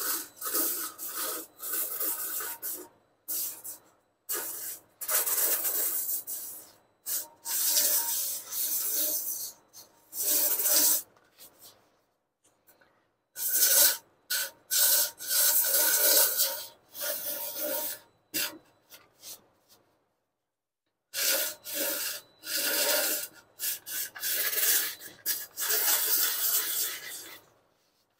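Hand sanding of cured Duraglass fiberglass filler on a steel motorcycle tank with coarse 36-grit sandpaper, shaping the filled dent. The sandpaper goes in runs of quick back-and-forth rasping strokes, with short pauses three times.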